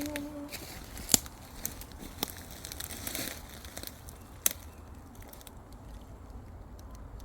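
Quiet crinkling and rustling, with a few sharp crackling clicks spread through it, after the last note of music dies away at the start.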